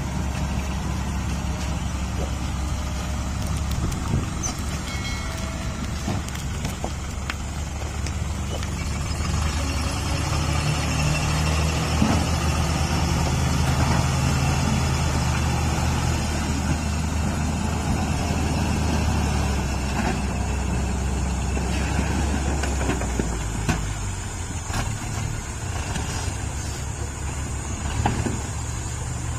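Diesel dump truck engine running steadily, climbing to higher revs for several seconds in the middle before dropping back.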